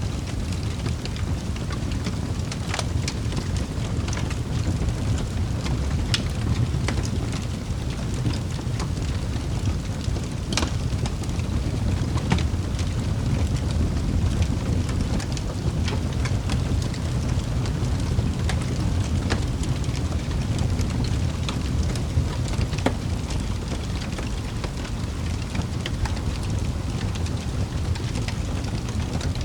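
Wood fire burning in a fireplace: a steady low rumble of flames with irregular sharp crackles and pops, one louder pop about ten seconds in.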